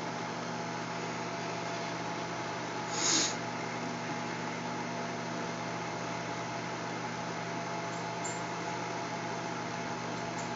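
Microwave oven running with a steady hum while heating a bar of Ivory soap. A brief hiss comes about three seconds in.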